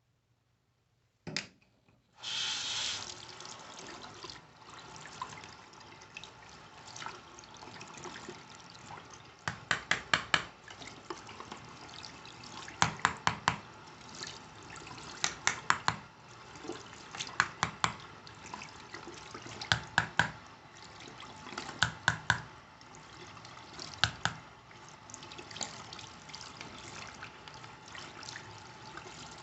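Water running steadily from a tap, with short clusters of three to five sharp knocks every two to three seconds.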